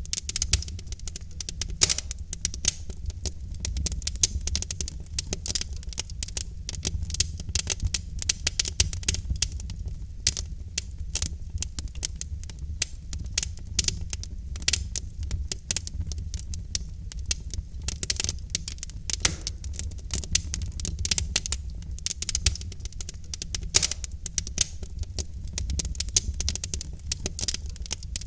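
Wood fire burning in a fireplace: logs crackling with a dense run of irregular snaps and pops over a low, steady rumble of the flames.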